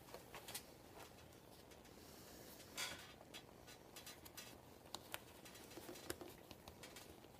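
Faint handling noises from work on a vinyl motorcycle seat cover: scattered light clicks and rustles, with one louder brief rustle about three seconds in and a few sharp clicks near the end.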